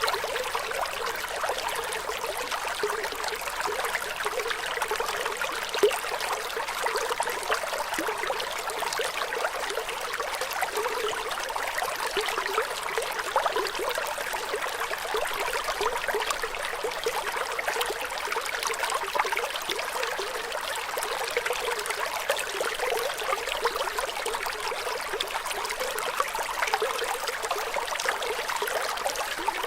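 Running water in a small stream, a steady babbling trickle with no breaks.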